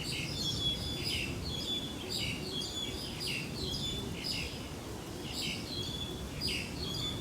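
Many small birds chirping, with short, quick repeated calls, over a steady low background rumble.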